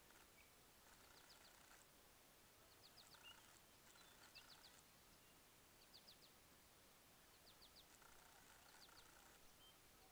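Near silence with faint bird calls: short clusters of three or four quick high notes, repeated every second or two.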